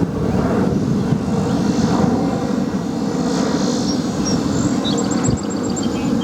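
Steady, loud jet-engine rumble from an Airbus A380-861, whose four engines are Engine Alliance GP7200 turbofans. Short high bird chirps come in over it near the end.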